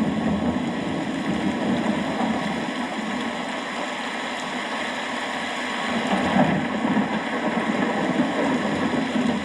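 Steady rain with a low rumble of thunder, the rumble swelling about six seconds in.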